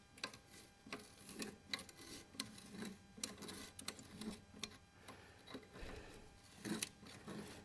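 Faint, irregular clicking and ticking from a wrench working a rusted, heat-loosened bolt on a 1936 John Deere DI engine as it starts to turn.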